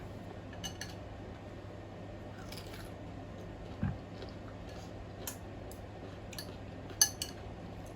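Eating sounds: a few scattered sharp clicks of cutlery against a dish and shell, with a low thud about four seconds in and the loudest click about seven seconds in.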